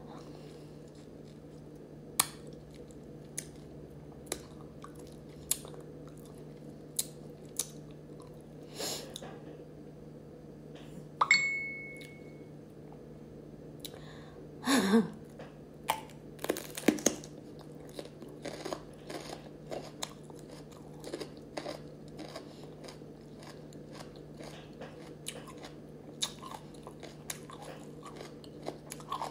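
Close-up chewing and crunching of raw bitter melon, with crisp bites and mouth clicks scattered throughout. A brief high steady tone sounds about eleven seconds in, and a short vocal sound comes around fifteen seconds.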